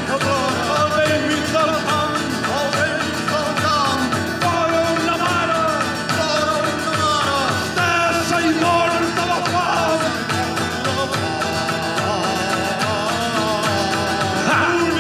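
Live band music: a voice singing over guitar with a steady beat.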